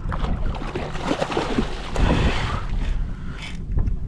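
Wind buffeting the microphone over water sloshing and splashing around a small kayak.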